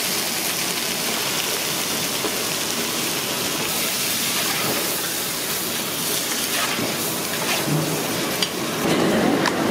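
Curd and chillies frying in hot oil in a large kadai: a steady, even sizzle while a ladle stirs the mixture, with a few clicks near the end.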